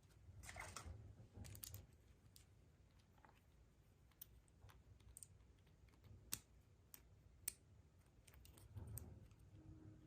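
Faint clicks and taps of small plastic toy parts being handled, with a short rustle of wrapping about half a second in and two sharper clicks in the second half.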